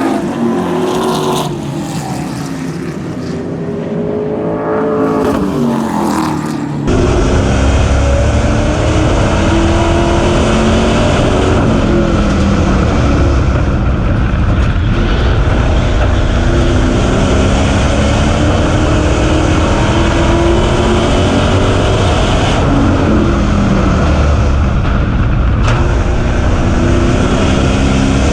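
Super Stock race car engines at speed on an oval: first cars going by with their engine pitch falling away, then about seven seconds in a sudden switch to a louder, continuous engine note whose pitch rises and falls every few seconds, the throttle opening on the straights and easing for the corners.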